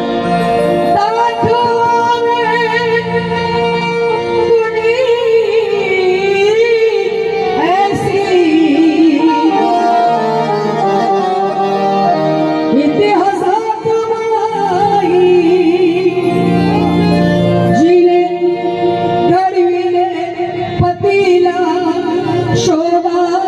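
Live Marathi song: a singer holds long, ornamented notes over steady, sustained instrumental accompaniment.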